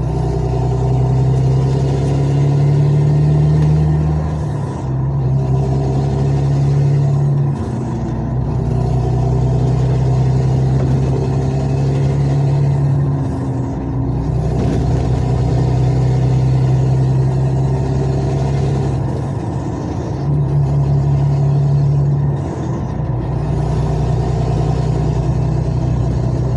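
Diesel engine of a heavy vehicle running under way, its hum stepping up and down in pitch every few seconds as it pulls and eases off, loud enough to be called a racket of a noise by the driver.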